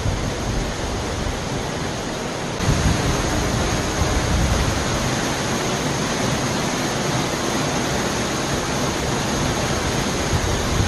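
Steady rush of falling water from Yahoo Falls, running high after heavy rain. It gets louder about two and a half seconds in.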